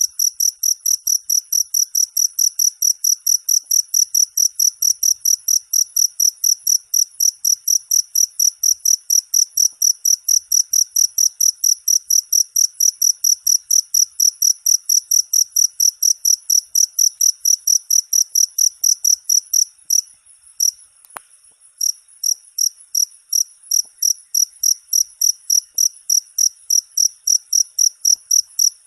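Cricket chirping in a steady, even rhythm of about three high, clear chirps a second. The chirping falters and breaks off for about two seconds some two-thirds of the way through, with a single click, then resumes at the same pace.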